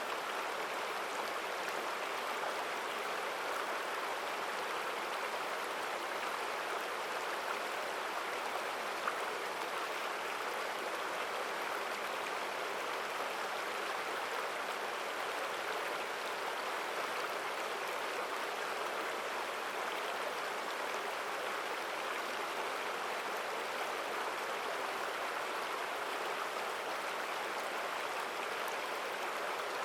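Forest mountain stream running strongly over rocks: a steady, even rush of flowing water.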